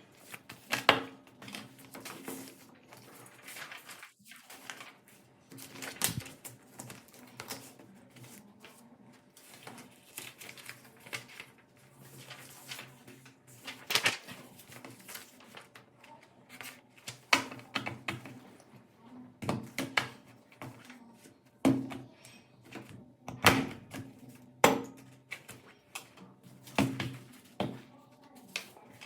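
Irregular sharp knocks and clicks of objects being handled and set down, one every second or two and more frequent in the second half.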